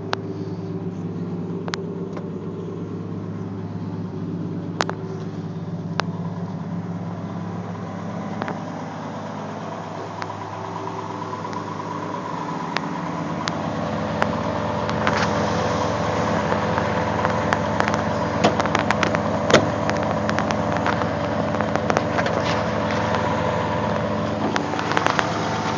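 1965 AMC Rambler inline-six engine idling shortly after a cold start in sub-zero weather, running rough. About halfway through its note changes and gets a little louder, and a run of light clicks and ticks joins it.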